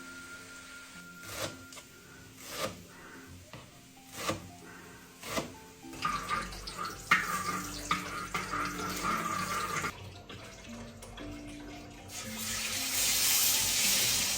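Water running from a tap into a sink: a hiss that comes on suddenly near the end, after a few sharp knocks and a spell of rougher splashing, with background music underneath.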